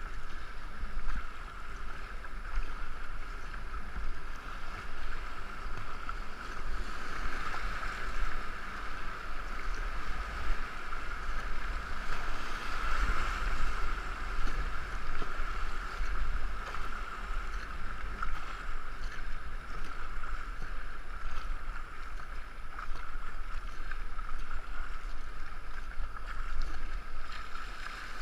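Water rushing and splashing along a two-man racing canoe as it is paddled, heard through a GoPro, with wind rumbling on the microphone.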